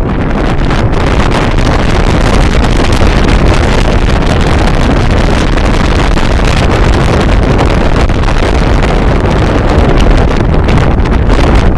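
Strong wind blowing and buffeting the microphone: a loud, continuous rushing with a heavy low rumble.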